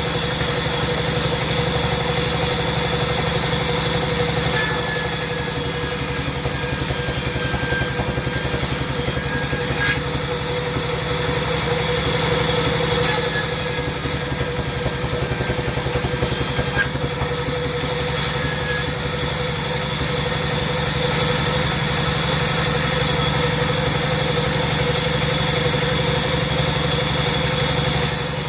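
Sawmill machinery running steadily with a constant hum and whine. Twice a brighter high hiss joins it for several seconds and stops abruptly with a click.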